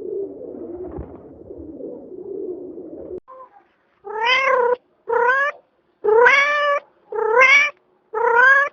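A cat meowing five times in a row, each call about half a second long, rising then falling in pitch. Before the meows there is a low, rough murmur for about three seconds.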